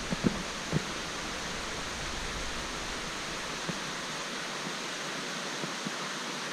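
Steady rushing of flowing creek water, with a few faint knocks in the first second.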